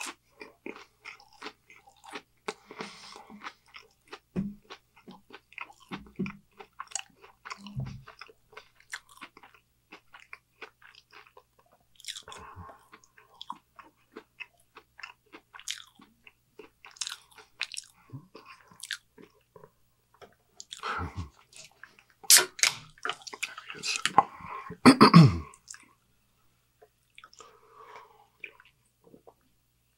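Close-miked chewing of a Burger King Whopper and fries: a steady run of short wet clicks and smacks, with a louder cluster of crunching mouth noises about three quarters of the way through.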